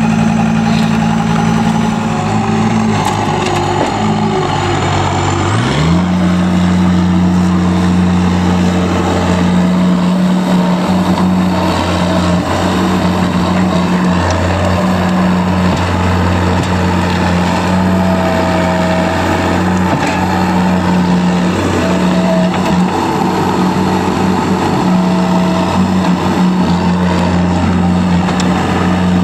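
Heavy vehicle engine running. About six seconds in it revs up and then holds a steady higher speed.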